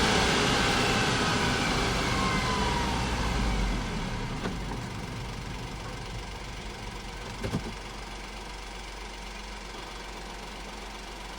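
Honda S660's small turbocharged three-cylinder engine, its revs falling over the first few seconds and the sound getting quieter, then settling into a steady idle. Two short clicks come through about halfway.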